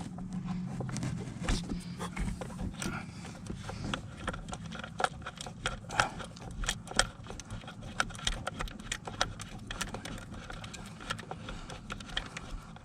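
Irregular clicks, clinks and knocks of hand tools and metal parts being handled during engine work, with a few sharper knocks standing out.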